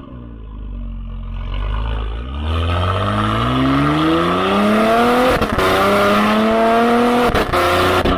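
Porsche Cayenne Coupe 3.0T's turbocharged V6, breathing through a catless downpipe and valved aftermarket exhaust, accelerating hard. The pitch climbs steadily and drops twice at upshifts, each shift marked by a sharp crack from the exhaust.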